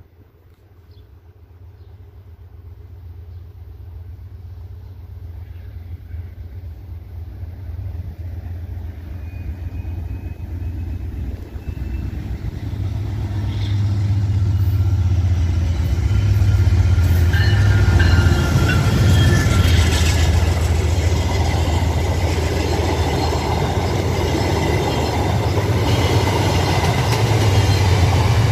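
A train approaches, growing steadily louder over about fourteen seconds, then passes close by with a heavy, continuous low rumble.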